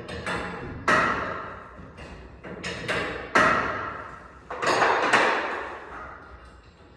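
Steel winding bars clanking in the winding cone of a garage door torsion spring as the spring is wound up, about seven hits at irregular intervals, each ringing and fading over about a second.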